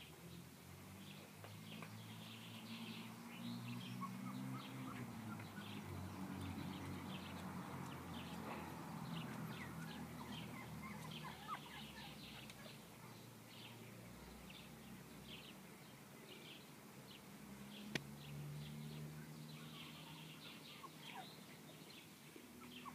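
Birds chirping faintly and continuously with many short high notes, over a low steady droning hum. A single sharp click sounds near the end.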